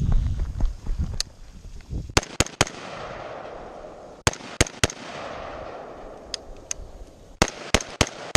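Gunshots fired in quick clusters of two or three, about a dozen in all, at steel targets on a competition shooting stage.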